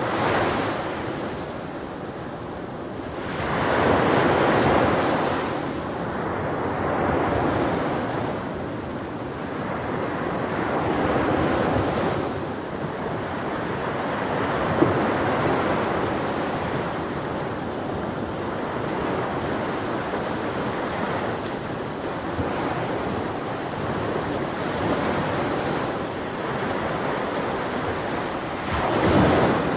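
Ocean waves breaking on a beach, the surf swelling and fading every few seconds, with the biggest swells about four seconds in and near the end, and some wind on the microphone.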